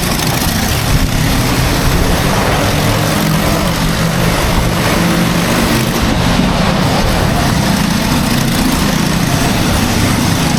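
A small engine running steadily at an even speed, a constant low hum with noise over it.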